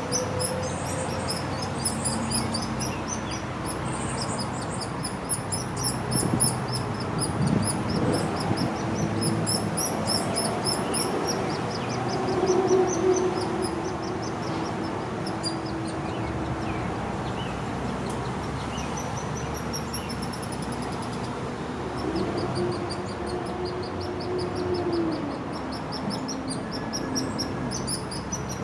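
Hairy woodpecker nestling calling from the nest with long, rapid trains of high-pitched chattering chirps, the begging that comes at feeding time. A low steady hum swells in the background twice, midway and later on.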